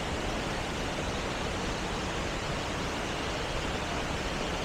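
Waterfall: steady rushing of water falling over the limestone tiers and into the pools.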